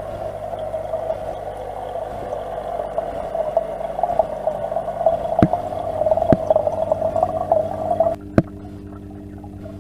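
Aquarium water bubbling and gurgling over a steady low hum, with a few sharp clicks. The bubbling cuts off suddenly about eight seconds in, leaving the hum.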